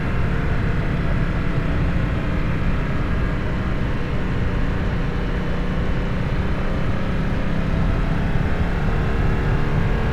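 Harley-Davidson Nightster V-twin running steadily through a Jekill & Hyde adjustable exhaust while riding, with a deep, even exhaust note.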